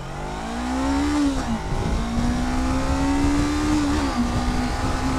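Honda CBR500R's 471 cc parallel-twin engine at full throttle in a 0–100 km/h launch. The engine note rises, drops sharply at an upshift about a second and a half in, climbs again, and drops at a second upshift about four seconds in.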